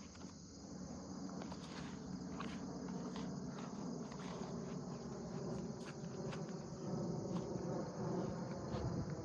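Crickets chirping steadily over the low drone of a distant airplane, which grows gradually louder as it approaches.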